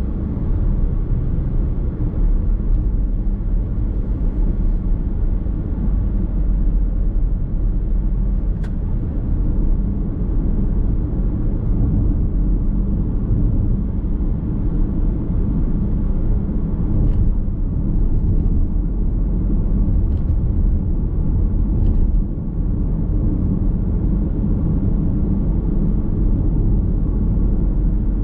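Steady low road and tyre rumble heard from inside a moving car's cabin, with a few faint ticks.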